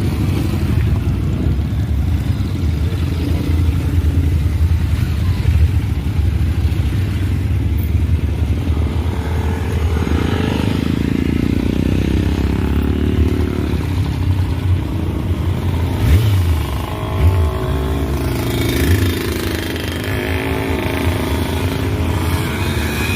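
Motorcycle engines running with a steady low rumble, with a few brief louder surges about two-thirds of the way through.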